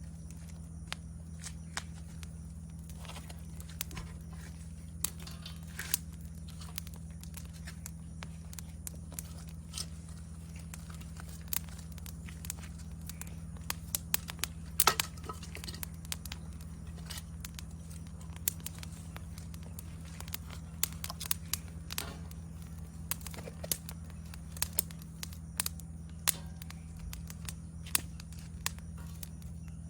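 Wood campfire crackling, with irregular sharp pops and snaps, a cluster of louder pops about halfway through. Under it runs a steady high trill of chirping insects and a low steady hum.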